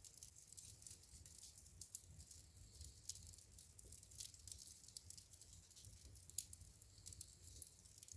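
Wood fire in a fireplace crackling faintly: a steady scatter of small snaps and ticks over a soft low rumble, with two sharper pops, about two seconds in and again past six seconds.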